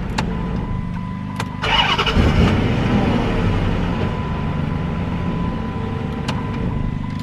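Car engine running just after starting, surging briefly about two seconds in and then settling to a steady idle, with a faint steady tone over it.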